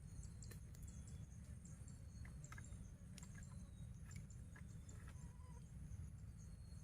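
Faint insect chorus: a steady high whine with a fast, regular pulsing chirp, and scattered small clicks throughout.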